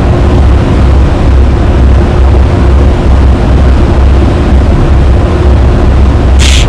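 Viking 60 sport-fishing yacht's engines running, a loud, steady low drone with a rushing noise over it; a brief hiss near the end.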